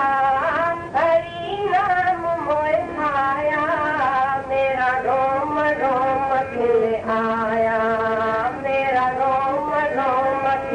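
A voice singing a devotional bhajan with melismatic, gliding phrases over sustained accompanying notes.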